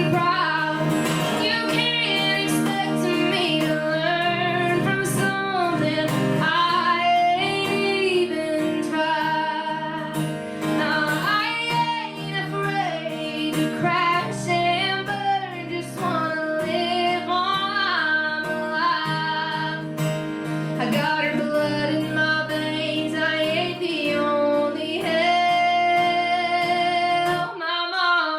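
A woman singing a slow song live, accompanied by acoustic guitar, her held notes carrying vibrato.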